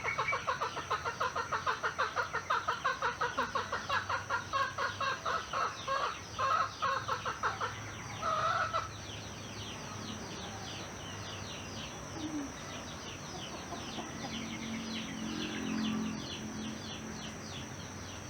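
A chicken clucking in a fast, even run of clucks for about the first half, then stopping. After that, birds chirp over a steady high-pitched hum.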